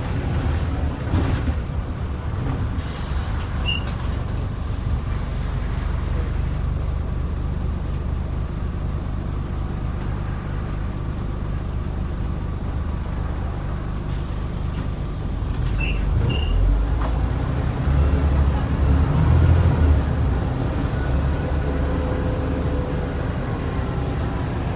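Scania N94UD double-decker bus's 9-litre five-cylinder diesel running, with two long hisses of released air from the air brakes, one a few seconds in and one about midway. The engine grows louder from about two-thirds through as it pulls harder.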